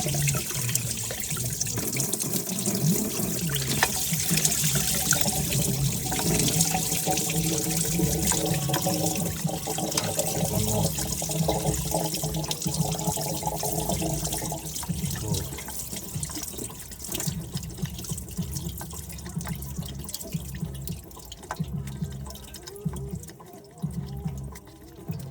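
Coolant running and trickling out of the engine as the water pump is being unbolted, a steady splashing that dies down in the second half.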